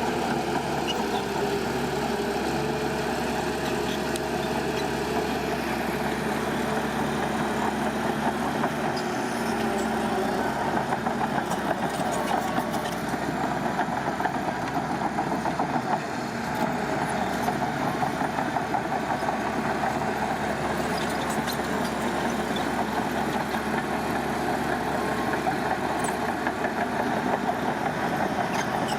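Heavy construction machinery's diesel engine running steadily at a fairly even pitch, with a rough, rattly texture.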